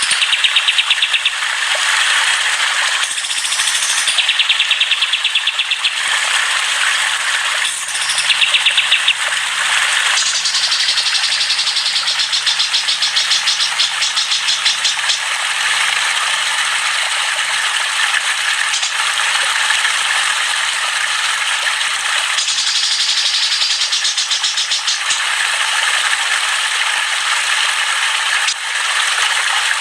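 Dense chorus of songbirds chattering and singing without a break, with stretches of fast, rattling trills.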